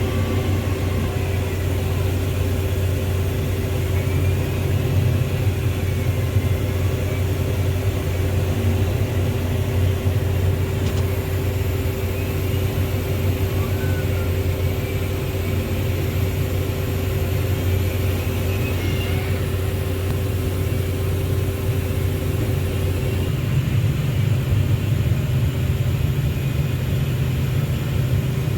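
Heavy diesel engine running steadily, its note stepping up about 23 seconds in.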